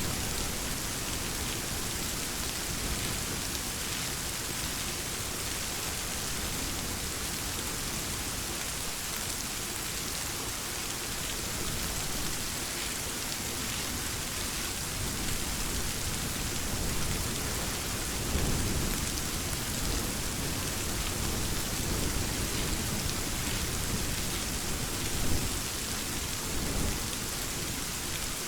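Steady rain falling in an even hiss, with low rumbles of thunder swelling in the second half and one sharper crack-like peak near the end.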